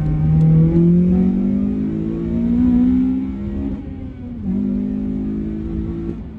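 Honda Civic Type R FN2's K20 four-cylinder engine accelerating hard, its revs climbing for about three and a half seconds, dropping at a gear change about four seconds in, then pulling again. The induction noise comes through a stock airbox with its back corner cut out and extra holes drilled.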